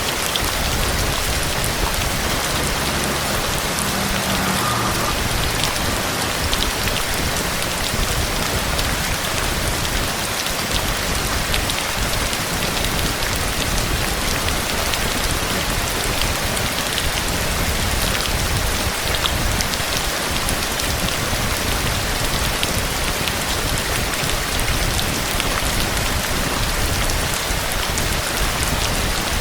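Steady, heavy rain falling on a surface, a constant hiss with many individual drops ticking through it.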